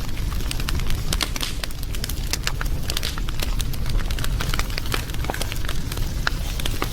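Wood fire burning, with many irregular sharp crackles and pops over a steady low rumble.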